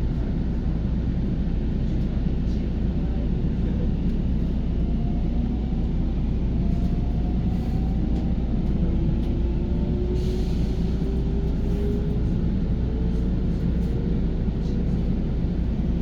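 Electric commuter train running at speed, heard from inside the carriage: a steady low rumble of wheels on the rails, with a faint whine slowly rising in pitch from a few seconds in.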